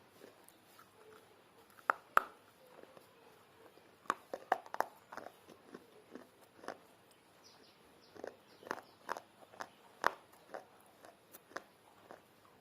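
Close-up crunching and chewing of baked clay pot pieces: irregular sharp cracks and crackles as the brittle clay breaks between the teeth, with the loudest bites about two seconds in and near ten seconds.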